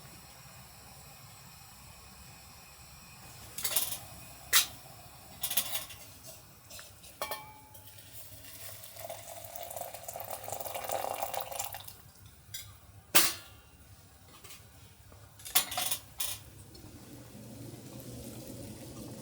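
Cookware and dishes clinking and knocking, with water poured for about three seconds midway.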